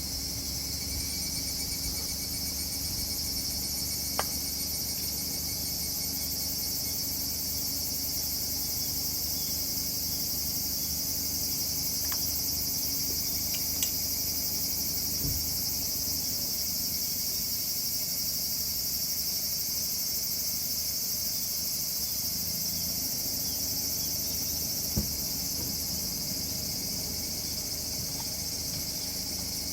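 Crickets chirping in a dense, steady high chorus, with a few faint clicks now and then.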